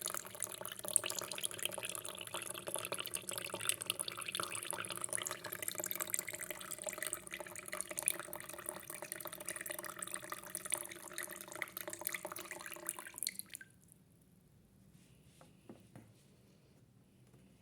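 Water running and splashing in a toy washing machine, stopping abruptly about three-quarters of the way through, followed by a few faint clicks.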